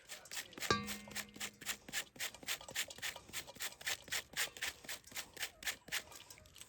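Rapid, even scraping or rubbing strokes, about four to five a second, with a single sustained musical note starting about a second in.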